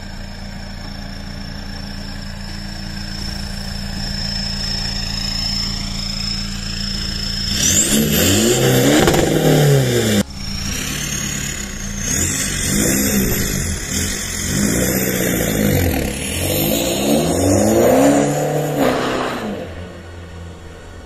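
Seat Ibiza 1.9 TDI 130's four-cylinder turbodiesel, stage 2 tuned and breathing through a custom exhaust, idles steadily and is then revved repeatedly from about eight seconds in. The pitch rises and falls with each rev, and a high whistle climbs with the revs.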